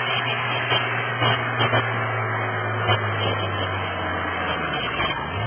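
Pulling tractor's engine running hard at high, steady revs under load down the track, a continuous loud drone. Part of the drone falls away near the end.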